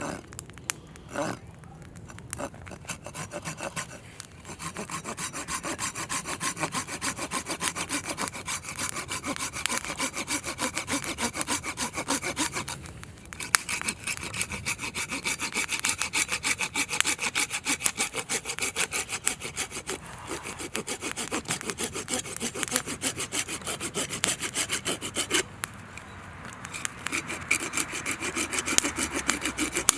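Hand saw cutting firewood with fast, even back-and-forth strokes, pausing briefly twice.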